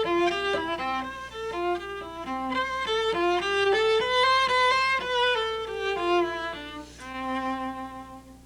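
Cello playing a quick bowed melody in its high register, one note at a time, ending on a held note that stops just before the end; a faint steady low hum lies underneath.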